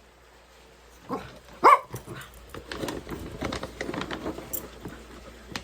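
A dog vocalizing: one short, loud high cry about a second and a half in, then a run of lower, rougher grumbling sounds.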